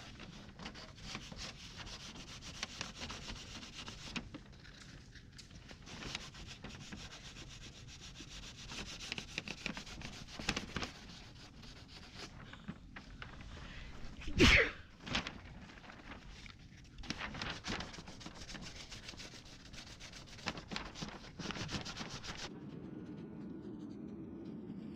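Sanding on a Tesla fender during body repair, in many short strokes. A single sharp, loud sound breaks in about halfway through, and the sanding stops shortly before the end, leaving a low hum.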